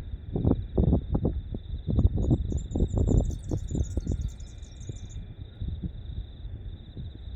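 Crickets trilling steadily in a high, pulsing tone, with a bird singing a high twittering phrase from about two seconds in to about five seconds in. Irregular low rumbling thuds sound over them, loudest in the first half.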